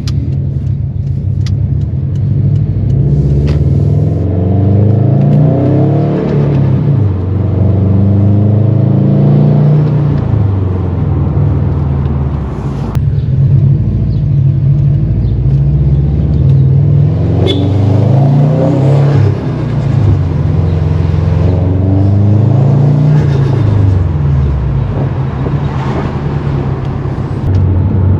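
Modified 2018 Subaru WRX STI's turbocharged flat-four engine running under load, its pitch climbing and dropping back several times as the car accelerates and shifts.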